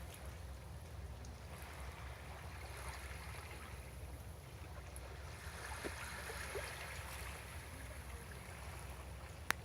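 Calm seawater lapping gently against a breakwater, a soft wash that swells a little in the middle, over a steady low rumble. A single sharp click near the end.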